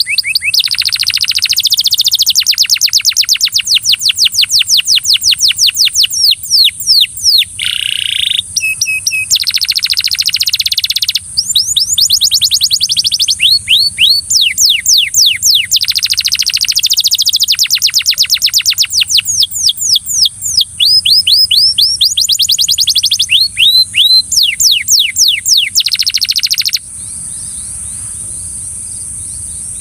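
Belgian canary singing loudly in long phrases of fast repeated-note trills and quick sweeping notes, with short breaks between phrases. The song stops about 27 seconds in, leaving a steady high hiss that runs under it throughout.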